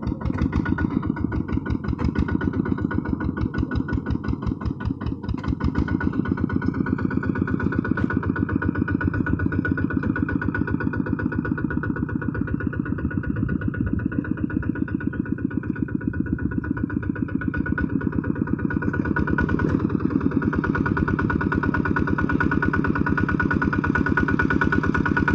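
Kubota hand tractor's single-cylinder diesel engine running steadily with a rapid, even firing beat.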